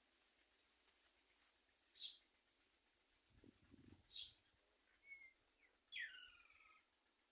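Birds chirping faintly: a short high chirp about two seconds in and another about four seconds in, then a cluster of calls near six seconds, one sliding down steeply in pitch.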